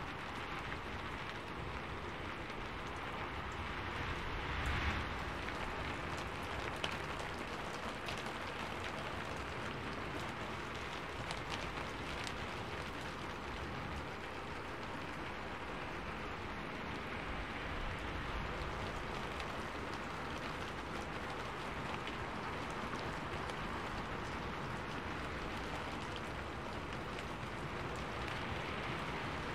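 Steady, even rainfall. A couple of sharper, louder drop taps stand out about five and seven seconds in.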